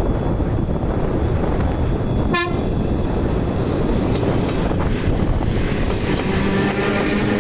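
ET2M electric train running with a steady, loud rumble. There is a brief, sharp pitched blip about two and a half seconds in, and a steady tone with overtones sets in near the end.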